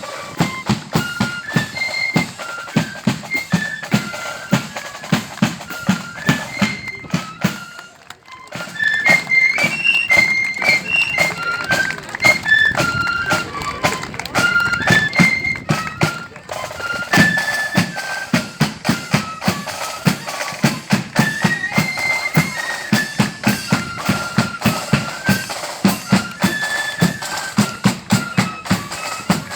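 Marching flute band playing a tune on flutes in unison over a steady beat of drums, with a short break in the playing about eight seconds in.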